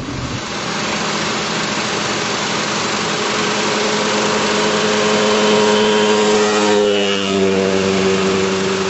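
Honda Civic 1.7-litre four-cylinder engine running with the hood open: a steady drone under a dense, harsh noise. About seven seconds in, the pitch shifts briefly and then settles.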